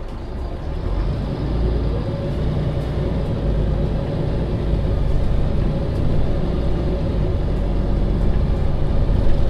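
MAN Lion's City NL 283 city bus diesel engine pulling away, heard from inside the bus: the engine tone climbs over the first two seconds and then holds steady under a heavy low rumble as the bus drives on.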